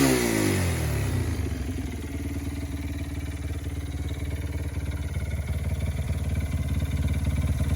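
Honda Ape 100 four-stroke single, bored to 115cc and fitted in an NSR50, dropping back from a rev in the first second and then idling steadily with an even, fast beat.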